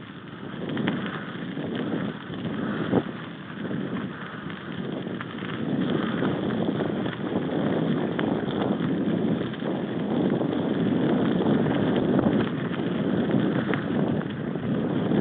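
Wind buffeting the microphone, with irregular knocks and clicks over it, louder from about six seconds in.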